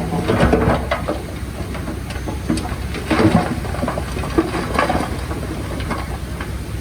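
Heavy earthmoving machinery working: a steady low diesel engine rumble with scattered metallic clanks and knocks. Background music fades out in the first second.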